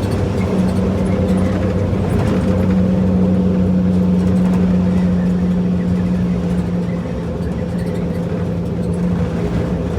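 5.9-litre Cummins-built New Holland diesel in a 1976 Dodge W600 Power Wagon tow truck, running steadily under way. Its pitch steps up within the first second, holds, and eases a little lower near the end.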